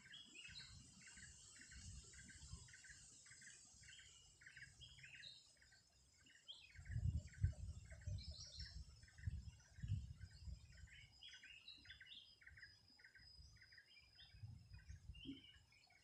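A bird calling in a steady series of short chirps, about two a second, faint in the open air. Low rumbles come and go beneath it and are loudest in the middle.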